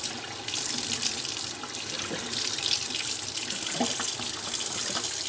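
Steady rush of running water, with a few light knocks about two seconds in and again near four seconds.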